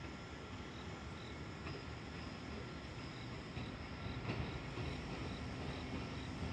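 Low rumble of an approaching freight train, growing a little louder about four seconds in, with an insect chirping faintly at a steady beat of about two chirps a second.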